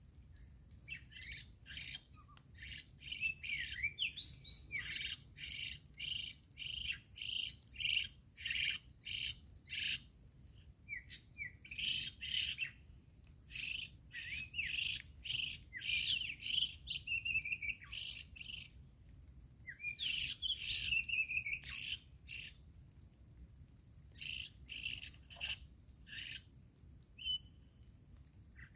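Songbird calling in runs of short, sharp chirps, about two a second, with pauses between runs, over a steady high insect drone.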